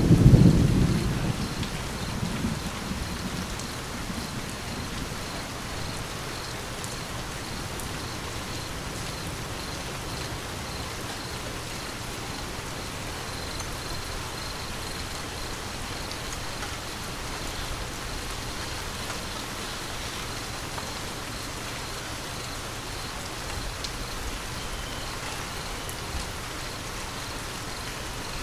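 Steady rain falling, with a low thunder rumble that fades away over the first few seconds.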